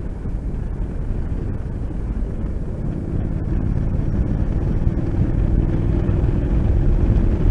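Motorcycle engine running at road speed with a low wind rumble, slowly getting louder.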